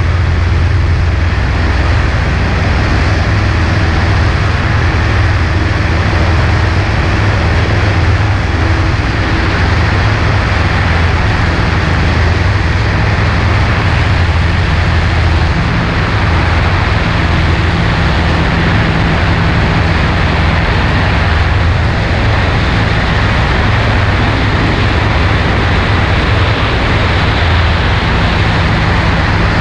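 Single-engine Cessna 140A's engine and propeller running steadily, under a continuous rush of air noise.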